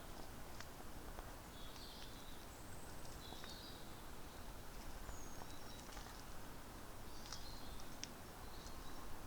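Faint birds chirping in short calls over a steady low background rumble and hiss, with a few light clicks.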